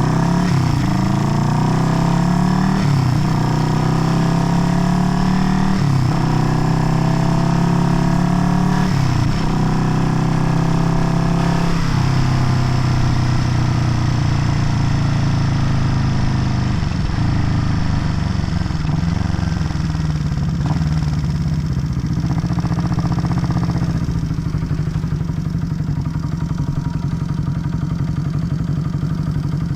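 Vintage Honda CB parallel-twin motorcycle engine accelerating through the gears. The pitch rises and drops back with each of about four upshifts in the first twelve seconds. It then runs at a steadier speed and eases off near the end.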